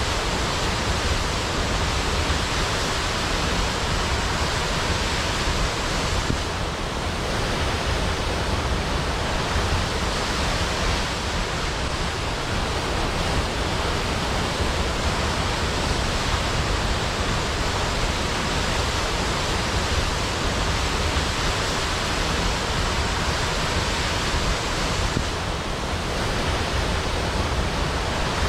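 Large waterfall pouring down a cliff into a pool: a steady, dense rush of falling water.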